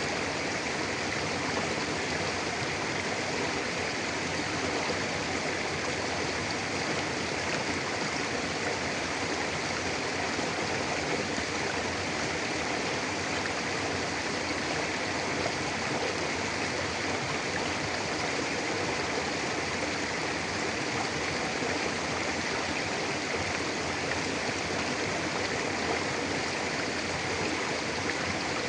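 Mountain river running steadily over rocks, a continuous rushing of water with no other sounds.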